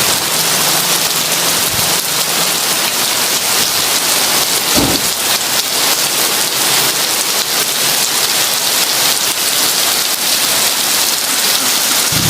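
Heavy rain falling in a steady, dense hiss, with one brief low thud about five seconds in.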